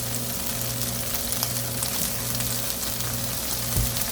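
Cicadas sizzling and crackling as they stir-fry in hot olive oil in a pan, with a low knock near the end.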